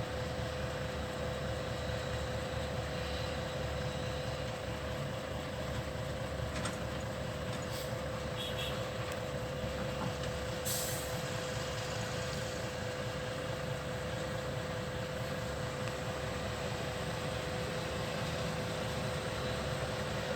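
Volvo A25E articulated dump truck's diesel engine running steadily, with a constant whining tone over the engine note. A brief hiss of air comes about eleven seconds in.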